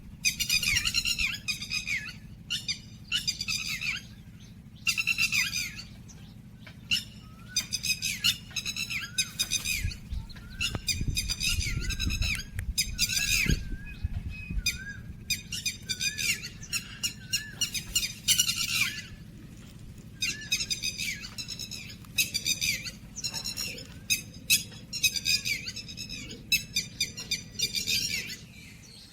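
Backyard birds calling over and over in quick runs of short calls, with brief pauses between runs, over a low steady rumble.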